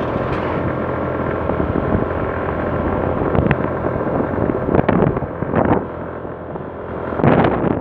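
Motorbike engine running steadily as it is ridden, with wind buffeting the microphone and a few brief louder gusts or rattles about five and seven seconds in.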